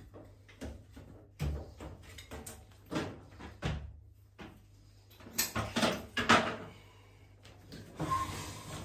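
Irregular knocks, clunks and scrapes of parts and tools being handled during washing machine repair work, with a cluster of louder knocks a little past the middle and a rubbing scrape near the end.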